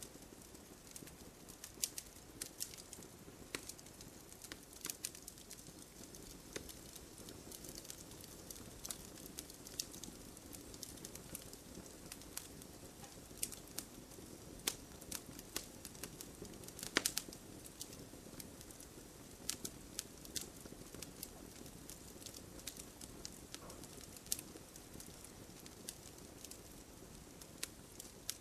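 Wood fire burning in a fireplace, crackling with frequent irregular snaps and pops over a soft steady hiss, one louder pop about 17 seconds in.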